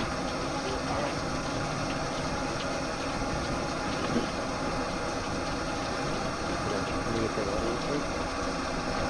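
A steady motor hum that holds an even level.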